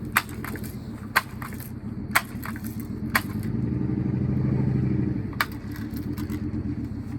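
Air pellet gun being pumped: a sharp click about once a second. Midway, a vehicle engine hum swells and fades.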